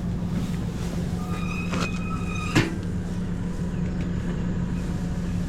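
Tractor engine running steadily. About two seconds in there is a brief metallic squeal, ending in a sharp clank.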